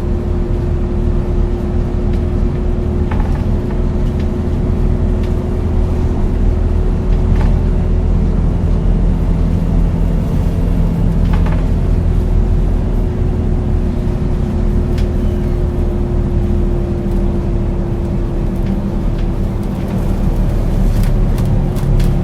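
A 2001 Scania L94UB bus's DC9 9-litre six-cylinder diesel engine running steadily, with a steady whine alongside it and a few light clicks and rattles.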